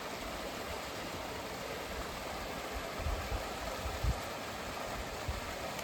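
Steady rushing of a mountain stream's water, with a few brief low thumps about halfway through.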